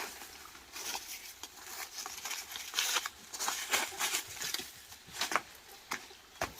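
Irregular rustling and crackling with scattered small clicks.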